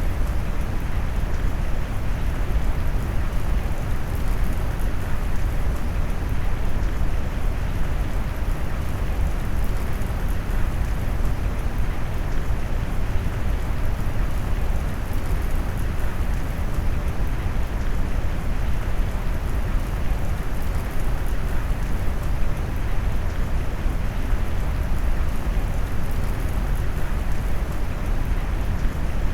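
Steady rain noise mixed with brown noise, heavy in the low end and dull at the top, unchanging throughout.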